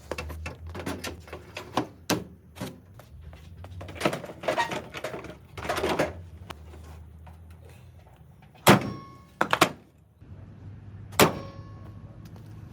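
A car's doors being worked and shut: a run of knocks and clunks, then three sharp slams, each with a brief metallic ring.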